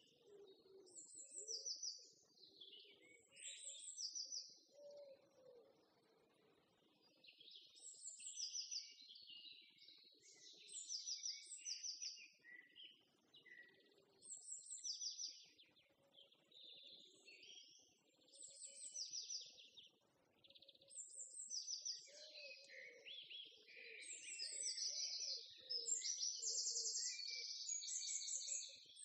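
Small birds chirping and trilling: short, high, rapidly repeated trills every second or two, getting busier and louder near the end, with a faint lower sound beneath.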